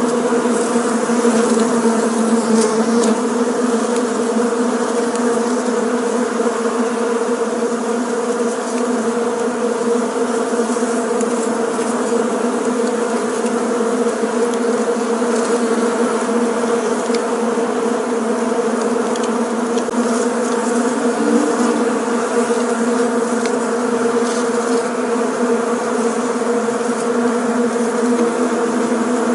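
A swarm of bees buzzing steadily, many wingbeats blending into one continuous low hum.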